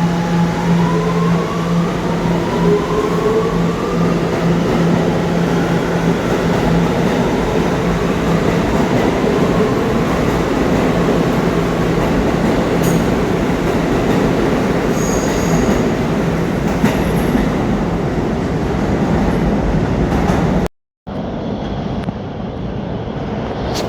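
New York City subway train running through the station, its traction motors whining up in pitch over the first few seconds as it gathers speed, then a steady rumble of wheels on rail. The sound cuts out for a moment near the end and resumes.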